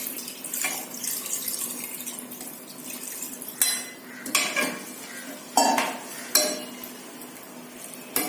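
A spoon stirring chicken masala and water in a metal pressure cooker, scraping and clinking against the pot several times.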